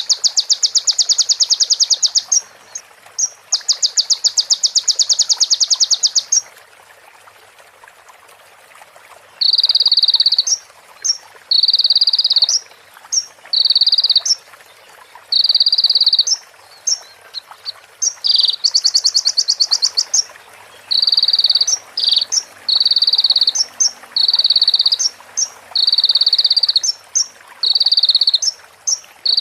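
Konin (sunbird) song made of prinia-style phrases: two long, rapid, high trills at the start, a short pause, then a steady run of short buzzy trills about once a second with thin high chips between them.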